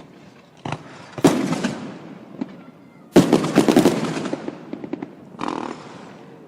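Aerial fireworks shells bursting: sudden bangs about a second in, near three seconds (the loudest) and near five and a half seconds, each followed by a dense spatter of crackle dying away over a second or two.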